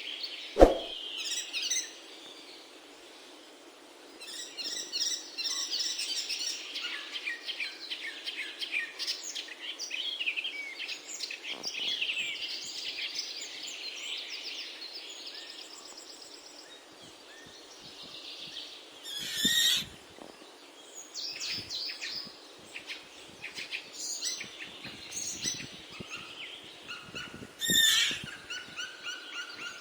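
Birds chirping and twittering, many short high calls in quick succession, with a sharp click about half a second in and two louder bursts of sound, one about two-thirds of the way through and one near the end.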